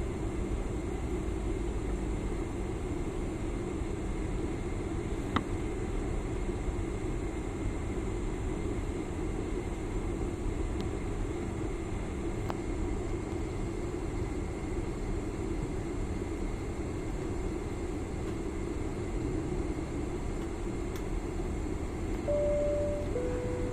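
Steady airliner cabin noise while the plane sits on the taxiway with its engines idling. Near the end, a cabin chime sounds two notes, high then lower.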